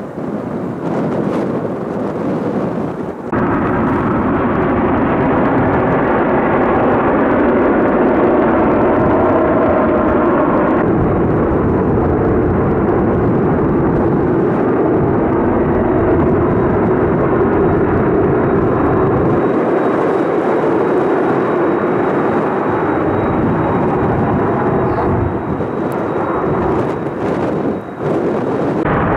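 Jet noise from Kawasaki T-4 jet trainers flying in formation: a loud, steady rush of sound that steps up sharply about three seconds in. A faint high whine joins from about eleven seconds on.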